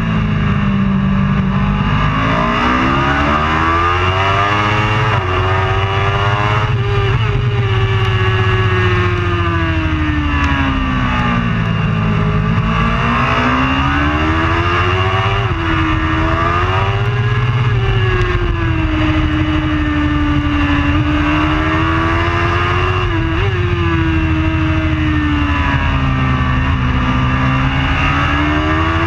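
Racing superbike engine at high revs, its pitch climbing and falling in long sweeps as it accelerates and slows through the corners, with a few short sharp blips.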